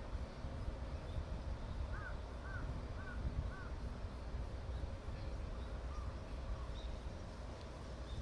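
A crow cawing four times in quick succession, about two calls a second, with a fainter call a little later, over a steady low rumble.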